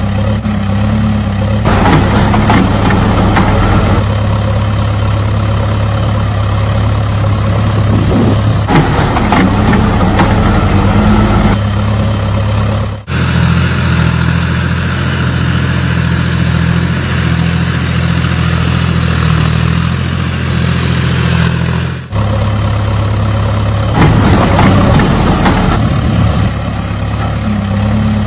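Heavy vehicle engine idling steadily. About thirteen seconds in it cuts abruptly to a slightly different engine sound, and cuts back about nine seconds later.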